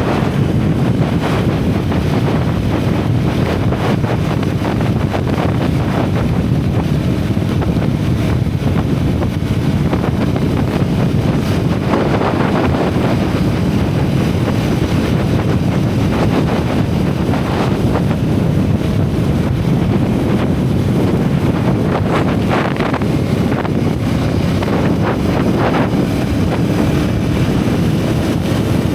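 A single-cylinder motorcycle running steadily at road speed, with heavy wind rumble on the action camera's microphone. The engine briefly rises a little about twelve seconds in and again near twenty-two seconds.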